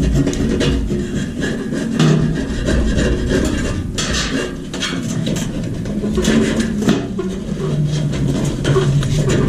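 Irregular knocks, clicks and scraping, as of something being handled and worked, over a steady low hum.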